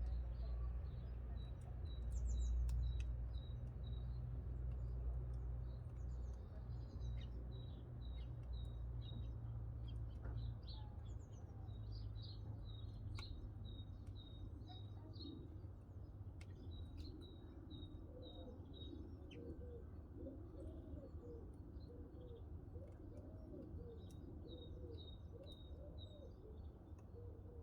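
Backyard birdsong: a small bird repeats a quick high chirp over and over, and from about two-thirds of the way in a dove coos in low, looping phrases. A few sharp clicks cut in, and a low rumble fades away over the first half.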